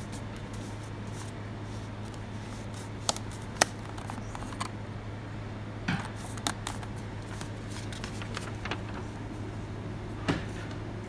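Scattered sharp clicks and knocks of small objects being handled, about five louder ones, over a steady low hum.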